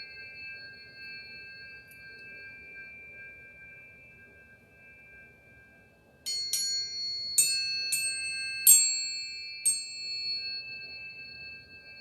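High, bright metal chimes ringing with several held tones that slowly fade. About six seconds in, a run of about six sharp strikes sets them ringing again, and the ringing dies away slowly after the last strike.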